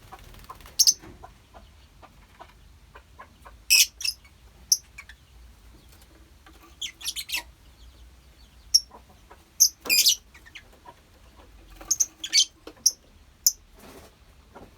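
A colony of lovebirds calling: short, high-pitched chirps and squawks in scattered bursts, busiest about four, seven, ten and twelve to thirteen seconds in.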